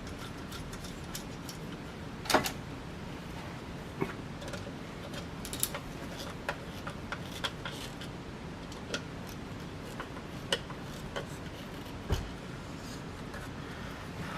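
Scattered small clicks and knocks of screws and metal parts being handled while fitting blades onto a vintage Baja Satellite ceiling fan, at irregular intervals, with a sharper knock about two seconds in and a duller thud near the end.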